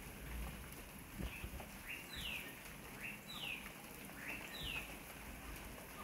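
A bird calling three times at a steady pace, about a second apart, each call a short rising note followed at once by a clear falling note.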